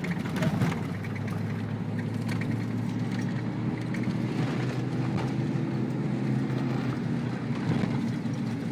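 Ford Bronco prerunner's engine running steadily while the truck drives a rough dirt trail, with a few short knocks and rattles from the bumpy ground.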